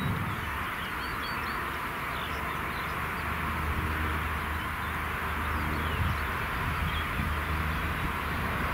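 Birds chirping now and then over a steady outdoor background hiss and a low hum.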